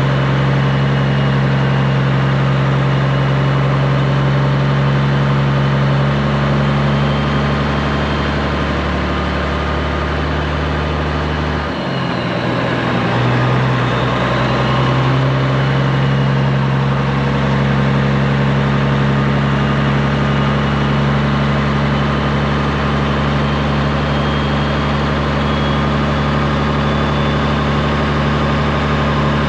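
Straight-piped Peterbilt 389 semi truck's diesel engine running steadily with a deep, even exhaust note. Its pitch dips briefly about twelve seconds in, then settles back to the same steady note.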